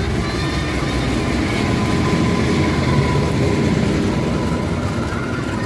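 Passenger train rolling past close by: a steady, loud rolling noise of wheels on rails.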